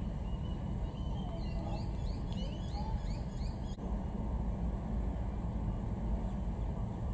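Birds chirping in a quick run of short calls, about a second in and lasting a couple of seconds, over a steady low rumble, with a single sharp click a little past the middle.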